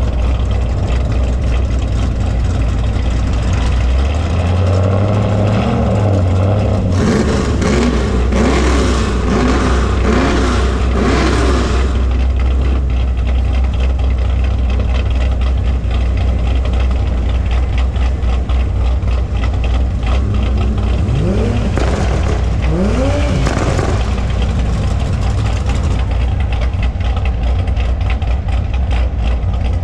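Muscle car engine idling with a steady low rumble, revved up and down four times in quick succession about a quarter of the way in, and blipped twice more past the middle.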